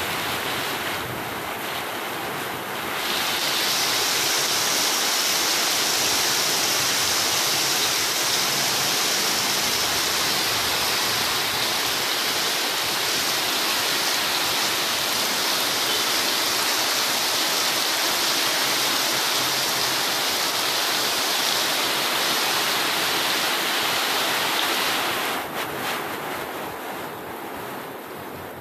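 Heavy tropical rain pouring onto a flooded road, a steady hiss of drops splashing into standing water. It grows louder about three seconds in and eases off a few seconds before the end.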